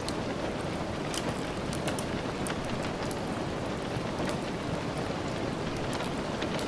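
Steady rain falling, an even hiss with scattered light ticks over it.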